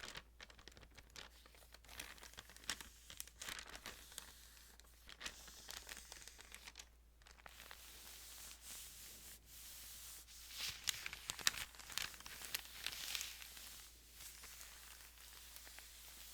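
Thin Bible pages crinkling and rustling as they are handled and turned, in many quick crackles that grow denser and louder about two-thirds of the way through.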